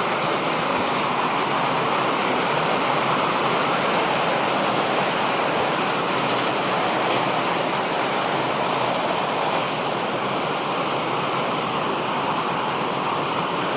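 Heavy tropical rain falling in a steady, unbroken downpour.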